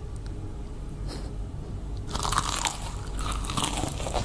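Loud, crunchy chewing and biting of food close to the microphone, starting about two seconds in. Before that only a low steady hum is heard.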